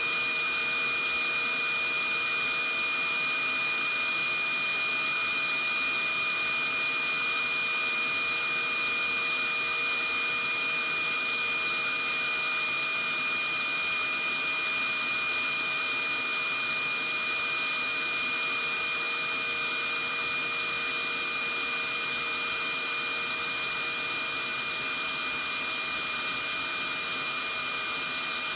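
Vacuum cleaner running steadily: a constant hiss of rushing air with a high motor whine held at one pitch.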